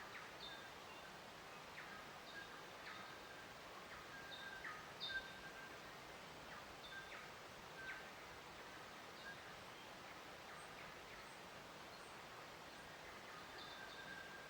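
Birds chirping faintly in short, scattered calls every second or so, over a soft steady outdoor hiss.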